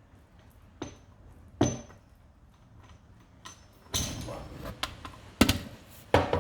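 A series of sharp knocks and clinks from hard tools being handled during a tyre plug repair, about seven in all and irregularly spaced, the loudest two near the end.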